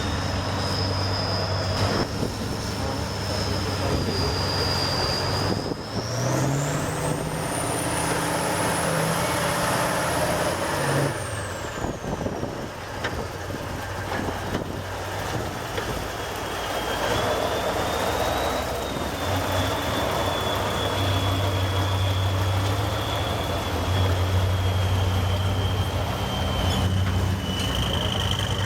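Heavy off-road trial truck's diesel engine running under load. It revs up about six seconds in, holds for a few seconds, then drops back. A high whine rises and falls with the revs.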